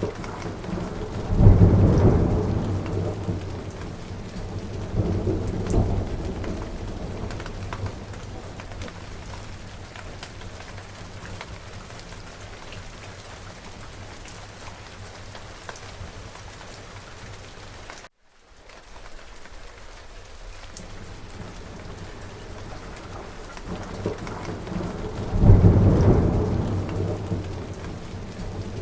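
Steady heavy rain with rolls of thunder: a loud rumble breaks out suddenly near the start and slowly dies away, a smaller one follows a few seconds later, and another loud one comes near the end. About two-thirds of the way through the sound cuts out abruptly for a moment and fades back in.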